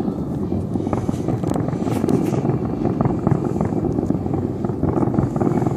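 Dense, continuous rumble and crackle of many fireworks going off at once, with a few sharper cracks standing out about two seconds in.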